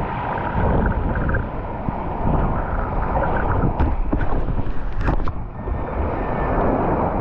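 Wind buffeting the microphone over the wash of sea water at the shore, with a few short, sharp sounds about four to five seconds in.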